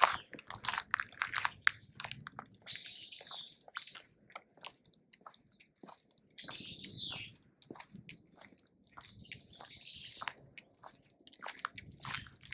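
Footsteps crunching on a forest path: an irregular run of short crackles. A few bird chirps come in about three, seven and ten seconds in.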